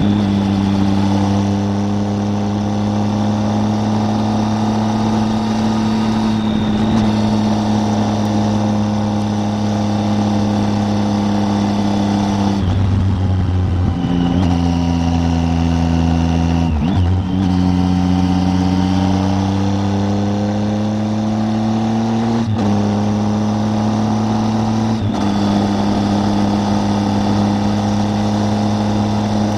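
Triumph Tiger 800 three-cylinder motorcycle engine running under way at steady cruising revs. Its note drops about thirteen seconds in and changes pitch again a few more times, as with gear changes or throttle changes.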